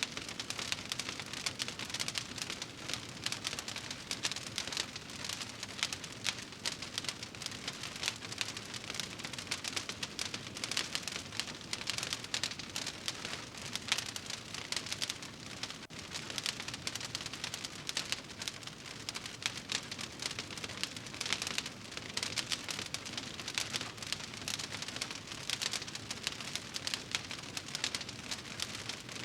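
Wood fire burning in a fireplace, crackling steadily with a dense run of small pops and snaps.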